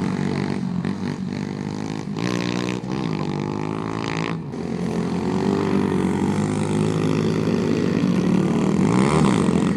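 Several pit bike engines racing on a dirt flat track, revving up and down as the bikes pass, with their pitches rising and falling over one another.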